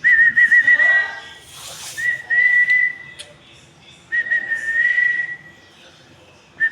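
Three clear, high whistles: the first warbles up and down, the next two are held steady, about a second or more each, with a short harsh rasp between the first two.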